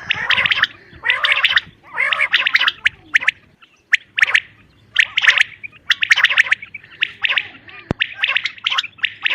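Female common quail calling: short bursts of rapid rattling notes, repeated about once a second, with a brief pause a little past the third second.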